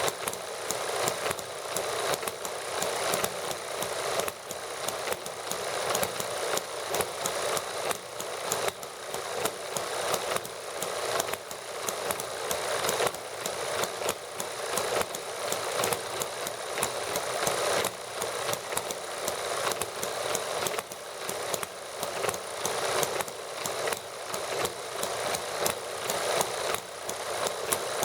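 Small model gasoline engines running steadily together, a fast, slightly irregular stream of sharp firing clicks and light mechanical clatter.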